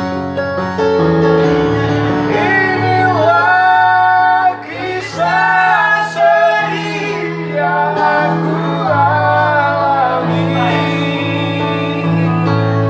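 A child singing a slow song over instrumental accompaniment, the voice coming in about two seconds in with long held notes that waver.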